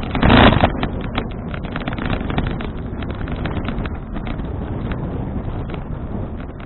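Wind buffeting an action camera's microphone while riding a bicycle: a steady rumbling noise full of small clicks and rattles, with a louder gust in the first second.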